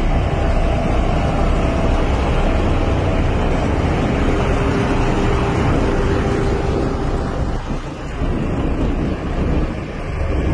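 Heavy construction machine engine running steadily with a low rumble, easing briefly a couple of times near the end.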